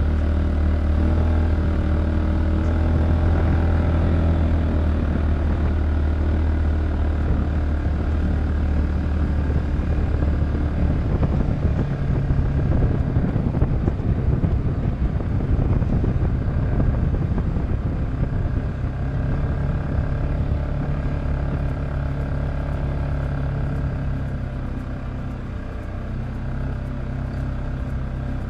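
Polaris Ranger 570 side-by-side's single-cylinder engine running under way, a steady low note that climbs to a higher pitch about halfway through and holds there.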